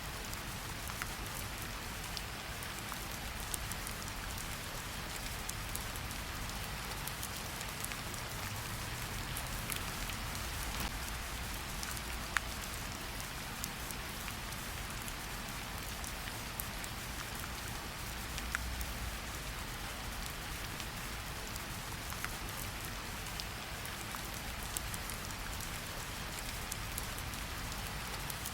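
Steady rain falling in a forest, an even hiss with scattered close drip and drop ticks.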